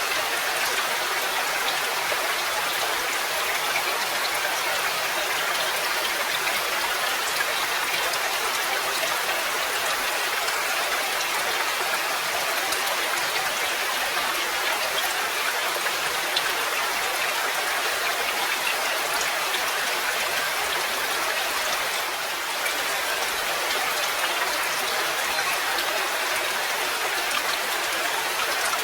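Steady rain: an even hiss of falling rain with many small ticks of single drops, dipping slightly about two-thirds of the way through.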